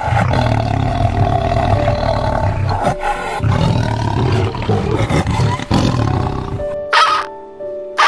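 Tiger roaring in long, deep roars, with a short break about three seconds in, over background music; a short harsh bird call near the end.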